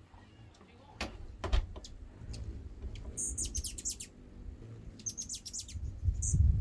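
Hummingbirds chittering: two quick runs of high, rapid chirps, about three and five seconds in. Underneath is a low rumble that grows loud near the end, with a few sharp clicks about a second in.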